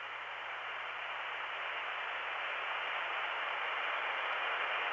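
Hiss on an old analog long-distance telephone line after the intercept recording ends, confined to the narrow telephone band and growing slowly louder, with a faint steady high tone under it.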